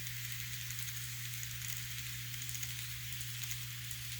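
Kato N scale diesel locomotive without a sound decoder pulling a train around the track: a faint, steady rolling hiss of small wheels on rail over a steady low hum.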